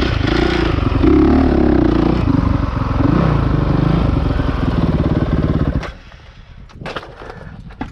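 Honda CRF450R single-cylinder four-stroke dirt bike engine running hard, its pitch rising and falling with the throttle. About six seconds in the engine sound stops abruptly, leaving faint scattered clicks and knocks.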